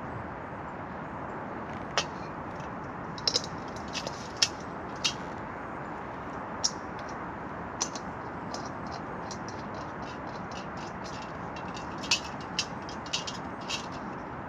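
Wood campfire crackling: a steady hiss with irregular sharp pops and snaps, the loudest about two, four and twelve seconds in.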